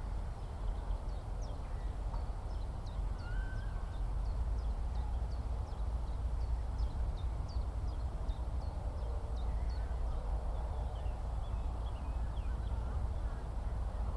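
Skylark song: a long run of quick, high, chirping notes, over a steady low rumble.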